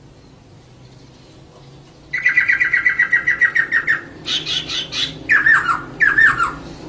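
Female laughingthrush (poksay) calling. After about two seconds of quiet comes a fast run of repeated chattering notes lasting about two seconds, then a burst of higher notes and two falling, slurred calls near the end.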